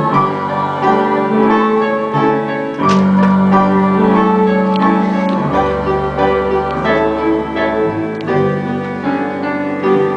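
Piano-led instrumental music from the show's accompaniment, playing a string of held chords.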